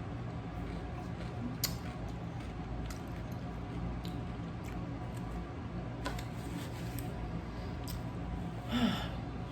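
Quiet chewing and small mouth clicks from someone eating a Subway sub, over a steady low hum. A short, louder breath-like vocal sound comes near the end.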